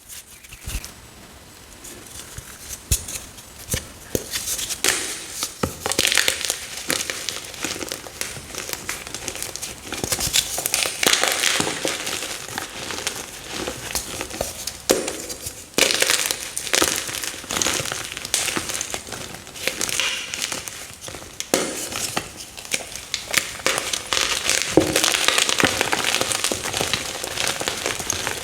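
Fresh chalk blocks being crushed and crumbled: a continuous crunchy, crackling crumble with louder crunches every few seconds.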